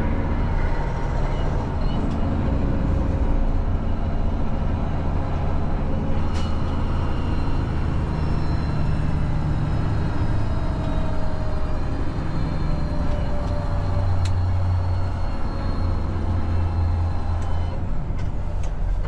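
Heavy-haul semi truck's diesel engine running steadily, with a couple of brief clicks.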